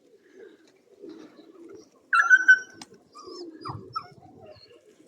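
Domestic pigeons cooing in a loft in repeated low murmuring phrases. About two seconds in, a short, sharp high-pitched call is the loudest sound, and a few brief chirps follow near four seconds.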